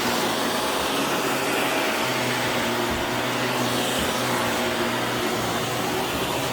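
Vacuum cleaner running steadily, a constant rushing motor noise with a low hum.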